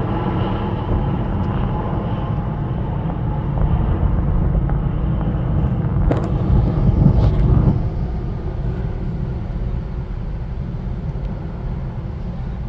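Low, steady rumble of a jet airliner's engines during takeoff. Its engine tones fade out in the first second, and the rumble swells louder about six to eight seconds in.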